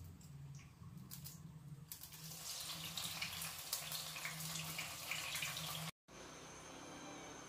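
Tempeh slices going into hot oil in a frying pan, sizzling and crackling from about two seconds in, after a few light clicks. The sizzle cuts off suddenly near the end.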